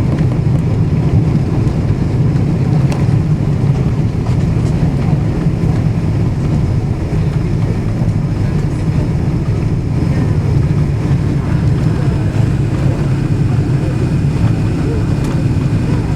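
Airliner cabin noise during the landing: a steady loud low rumble of the jet engines and rushing air, heard from inside the passenger cabin.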